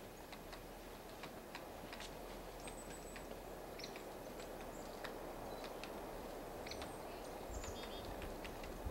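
Small songbirds at a winter feeder: brief high chirps and thin whistled call notes, with many sharp little ticks and clicks scattered throughout, over a steady outdoor hiss.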